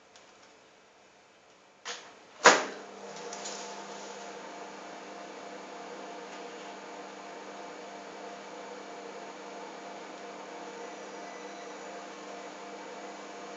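Two sharp clicks, the second loud, then a microwave oven starts and runs with a steady hum.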